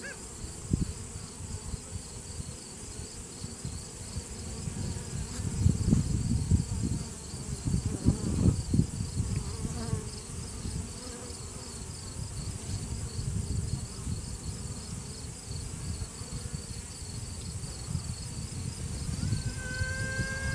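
Honeybee workers buzzing on a hive frame, swelling louder now and then. Near the end a virgin queen starts piping: one long held toot followed by short repeated toots.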